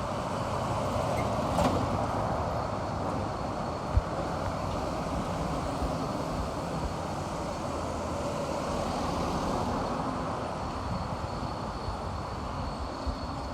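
Steady rumble of road traffic, vehicles passing on a busy highway, with a brief sharp click a couple of seconds in and a low thump about four seconds in.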